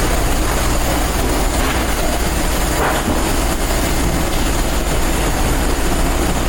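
Loud, steady machinery and ventilation noise of a cruise ship's galley: an even rushing roar over a constant low hum, with no pauses or distinct events.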